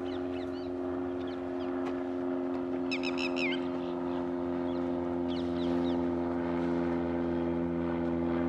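A steady droning hum made of several fixed tones, with small birds chirping over it. A quick run of chirps comes about three seconds in.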